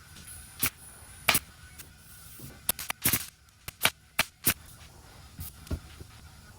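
Staple gun firing staples to fasten welt cord onto vinyl-wrapped panels: sharp snaps, about ten in all at irregular spacing, some in quick pairs.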